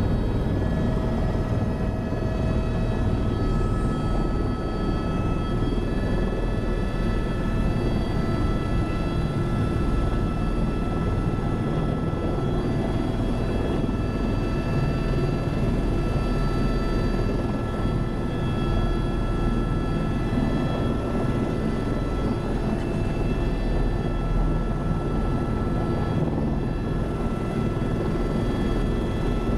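Helicopter in flight: a steady, loud rumble of rotor and engine noise with several constant high whining tones over it.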